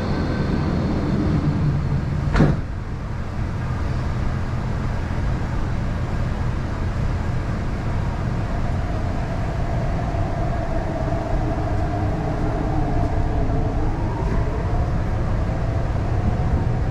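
MTR East Rail line R-Train electric multiple unit running, with a steady rumble of wheels on track. Its motor whine falls away over the first two seconds, a sharp click comes about two and a half seconds in, and the whine rises slowly again in the second half as the train picks up power.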